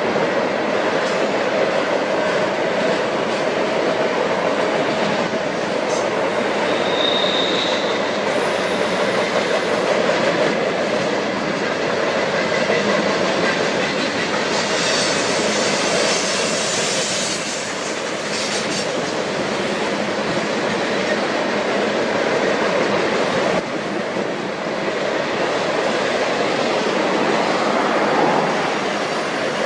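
Union Pacific freight train cars rolling past on the rails in a steady rumble with clickety-clack from the wheels. A brief high wheel squeal comes about seven seconds in.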